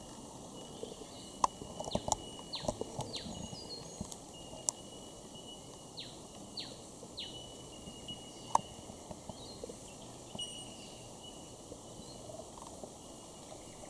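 Forest bird calls: short whistled notes that fall steeply in pitch, coming in small groups of two or three, with a few sharp clicks between them over a faint steady high tone.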